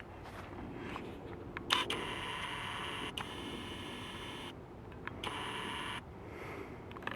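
A small motor whining, switching on with a click and running for about three seconds, stopping suddenly, then running again for under a second, over a faint steady low hum.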